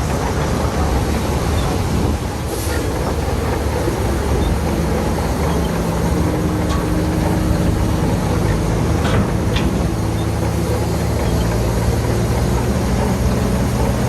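Heavy diesel engines of earthmoving machinery running steadily. The engine note rises to a higher pitch about six seconds in, as under load. A few brief high clinks or squeaks are heard.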